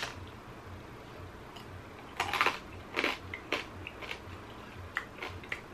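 A person biting into and chewing a slice of pizza topped with whole oven-baked crabs, with several sharp crunches, the loudest a couple of seconds in. The baked crab shells and legs are very hard.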